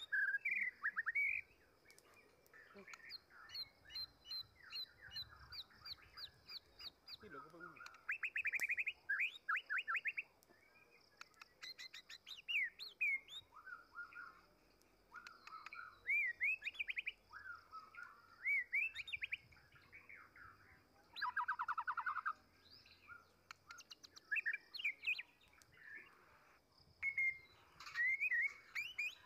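Wild birds chirping and calling: fast trills of short, high notes and repeated chirps, coming in clusters with short gaps between them.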